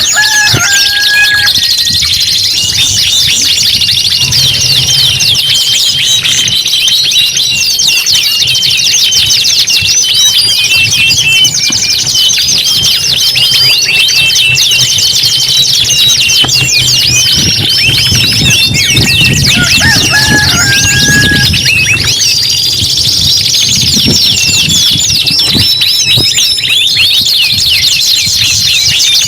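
Several domestic canaries singing at once: continuous fast rolling trills and rapid chirped notes layered over one another, loud and unbroken, with a couple of short, lower, steady whistled notes, one right at the start and another about twenty seconds in.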